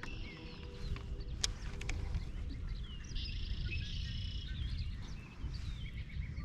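Birds calling and singing, with a dense trilled song about three seconds in, over a steady low rumble.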